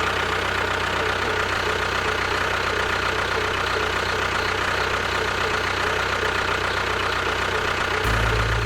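Engine running steadily with a knocking, idling chug, as of a tractor; a deeper low rumble comes in near the end.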